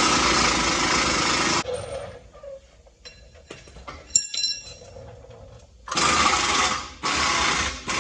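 Air impact wrench run in three bursts: one of about a second and a half at the start, then two shorter ones near the end. Between them come light metal clicks and a single ringing metallic clink about four seconds in.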